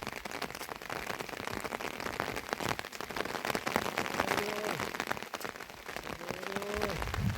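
Heavy rain falling, a dense crackle of drops hitting a surface. Two faint, brief voice-like calls come through it, one about halfway through and one near the end.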